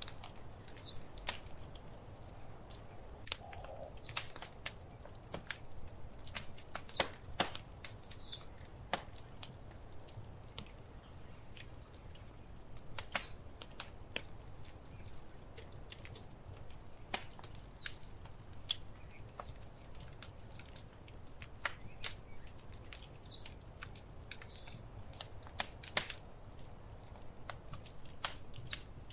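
Wood fire in a fireplace crackling: irregular sharp pops and snaps, several every second and a few louder ones, over a low steady rumble.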